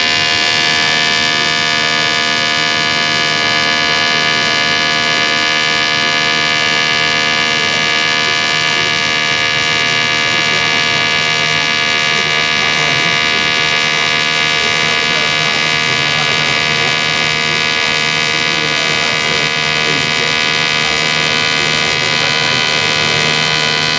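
TIG welding arc buzzing steadily at a constant pitch, held for a continuous weld run, then cut off just after the end.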